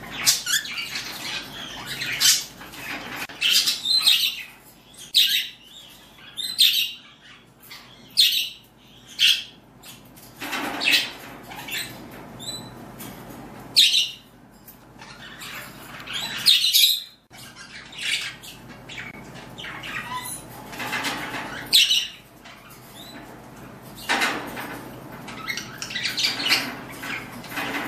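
Pet cockatiels calling and chirping in their cage, with short squawks and chirps scattered through, some close together and some a second or more apart.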